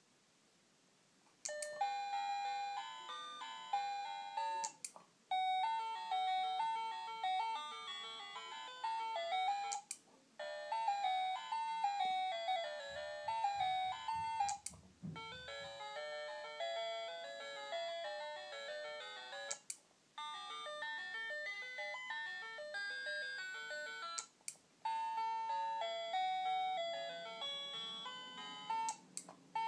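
Electronic toy melody from a switch-adapted lights-and-sounds butterfly toy: a thin, beeping chiptune tune that plays in stretches of about four to five seconds, each starting with a click after a brief pause.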